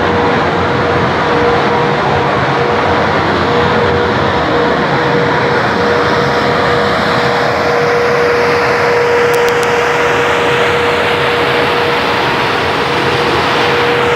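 Repaired 250 hp industrial fan with new blades running at speed on test: a loud, steady rush of air with a steady tone running through it.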